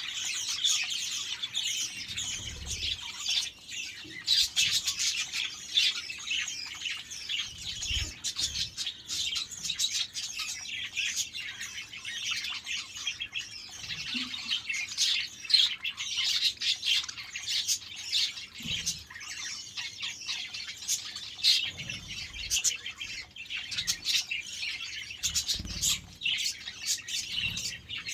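A flock of budgerigars chattering and chirping continuously, many birds calling over one another, with a few soft low thumps now and then.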